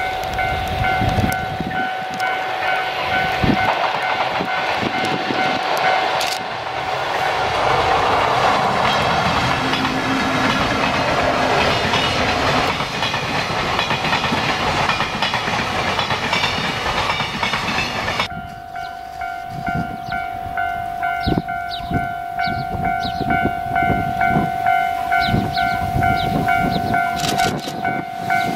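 Container freight train hauled by an EF65 electric locomotive running past, its wagons rumbling and clattering over the rails. About 18 s in the sound cuts to another passing, where the wheels give a run of regular sharp clacks over rail joints above a steady hum.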